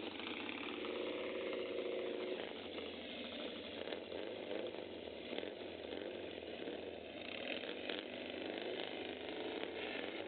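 Pre-unit Triumph motorcycle engine running steadily at idle.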